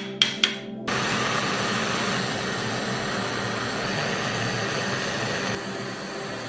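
Two sharp clicks, then a power tool starts and runs with a steady, loud, noisy whir over background music. The whir drops a little in level near the end.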